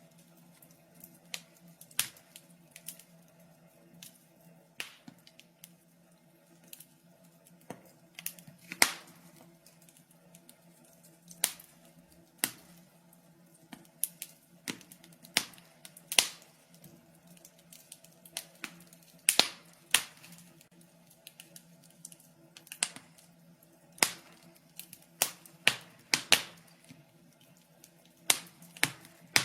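Wood fire crackling, with irregular sharp pops and snaps of varying loudness over a faint steady low hum.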